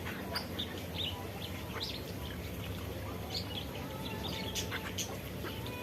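Many small aviary birds chirping, short calls overlapping irregularly over a steady low background noise.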